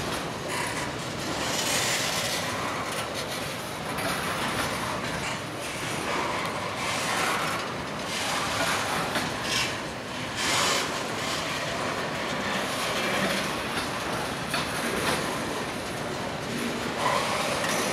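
A train's cars rolling past on the track, a steady continuous rolling noise with no break.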